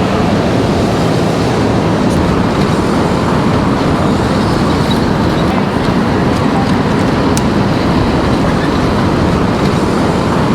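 Steady rush of road and traffic noise heard from an electric bike moving through city traffic, with a couple of brief clicks.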